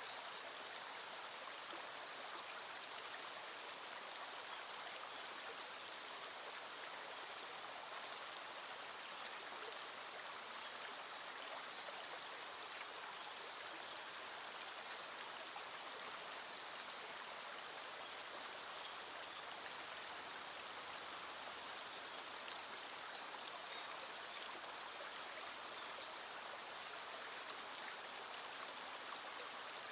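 Small stream flowing steadily, with a light patter of scattered raindrops over it.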